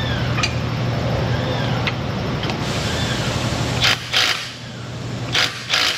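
A power tool runs steadily on the ball joint pinch bolt, a 14 mm nut, with a faint squeal about every second and a half. Near the end come quick repeated ratchet clicks.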